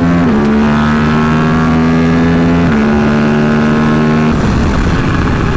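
KTM RC8C's 889 cc parallel-twin engine running at steady high revs under load on track. The pitch holds nearly level with two small steps, then the engine note drops away about four seconds in, leaving mostly wind rush.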